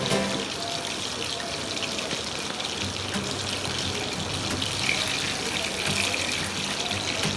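Pieces of chicken frying in oil, a steady sizzle, with background music underneath.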